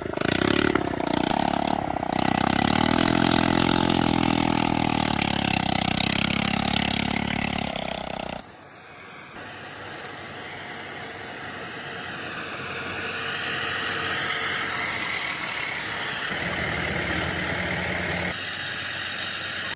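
Heavy diesel farm-machinery engines running hard, loud and steady at first; the sound changes abruptly about eight seconds in to a quieter, wavering engine note, and shifts again near the end.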